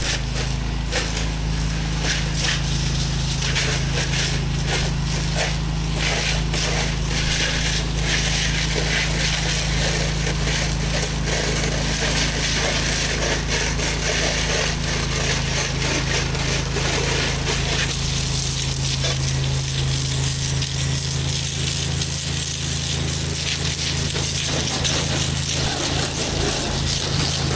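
Gas pressure washer engine running steadily under the hiss of high-pressure water spraying on a surface; about two-thirds of the way through the spray turns brighter and the lowest engine hum drops away.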